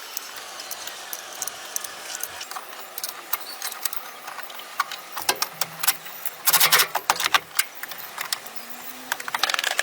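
Irregular sharp mechanical clicks and clatters, with a dense run of rapid clicks about two-thirds of the way through.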